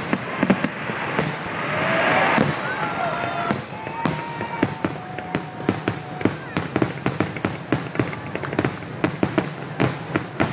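Fireworks display: a dense run of shell bursts, bangs and crackling reports one after another, with a louder swelling rush of noise about two seconds in.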